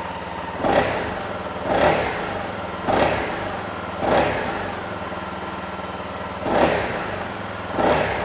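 Honda CRF250L's single-cylinder four-stroke engine idling through its stock exhaust, blipped six times, about once a second with a longer pause in the middle. The stock exhaust note is really quiet.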